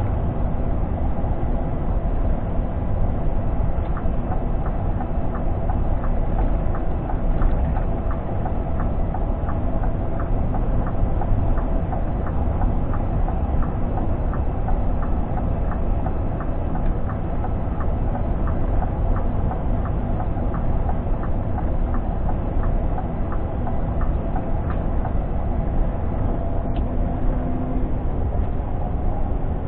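Scania G460 truck heard from inside the cab while driving: a steady low engine and road rumble. Through the middle there is a light regular ticking at about two clicks a second.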